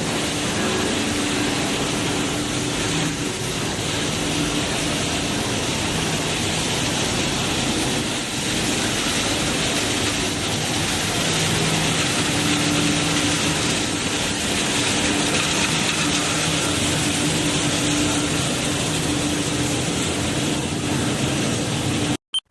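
Plastic film recycling line running: a steady, dense machinery noise with a low hum, cutting off suddenly near the end.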